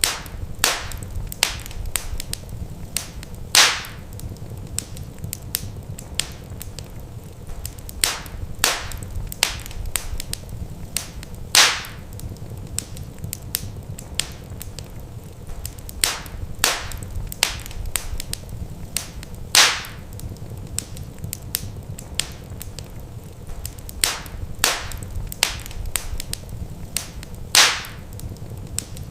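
Wood fire crackling in a fireplace: irregular sharp snaps and pops of burning logs over a steady low rumble of flame, with a louder pop about every eight seconds.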